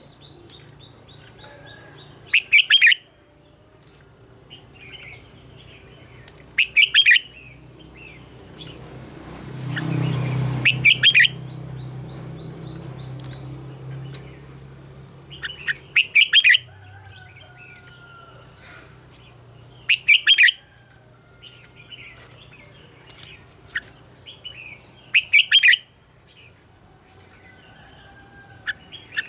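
Red-whiskered bulbul singing loud short phrases, about seven of them a few seconds apart, with fainter chirps in between. A rushing noise swells and fades about a third of the way through.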